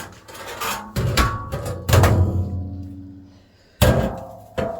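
Sheet-metal washer cabinet being knocked and handled during disassembly: a series of loud hollow bangs, five or so, each ringing on and dying away.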